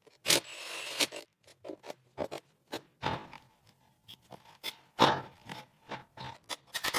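Hand work on corroded truck parts: irregular scrapes and sharp clicks of tools and loose metal pieces, with a longer scrape near the start and a louder one about five seconds in.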